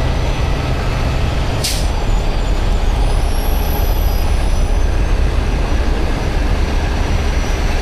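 Heavy truck's diesel engine idling with a steady low rumble, and a short hiss of air about two seconds in, like an air brake releasing.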